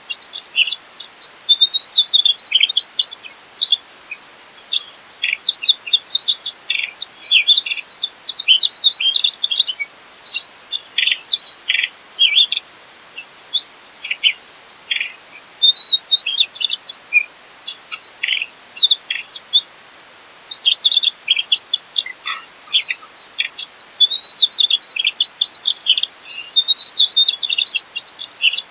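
Mugimaki flycatcher singing a long, unbroken stream of fast high chirps, twitters and quick whistled sweeps.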